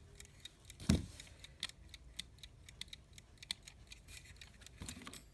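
Irregular small metallic clicks and taps from alarm clock parts being handled, with a louder knock about a second in and another near the end.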